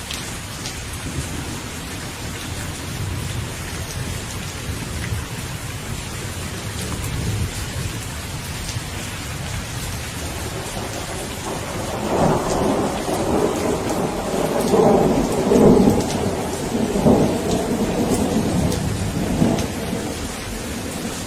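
Steady rain falling, with a long rolling rumble of thunder that builds about halfway through, is loudest a few seconds later, and dies away near the end.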